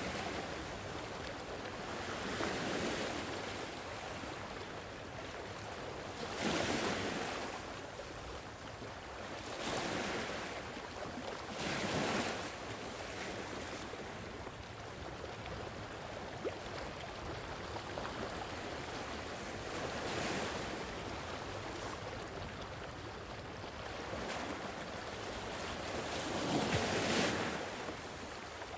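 Gentle sea waves washing in over a steady rush of surf, a louder swell every few seconds at an uneven pace.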